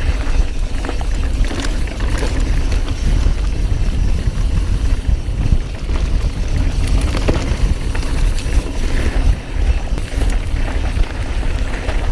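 Wind rumbling on the microphone while a mountain bike is ridden down a dirt trail, with scattered knocks and rattles from the bike over bumps.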